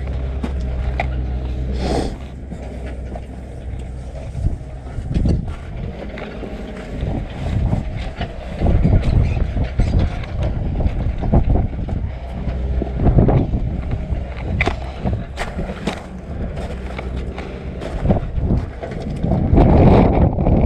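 Wind buffeting the microphone in a low, steady rumble, with irregular crunching footsteps on loose gravel.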